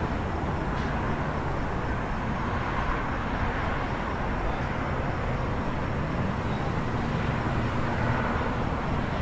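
City night ambience: a steady wash of distant traffic noise, with the low hum of an engine rising slightly about six seconds in and then holding.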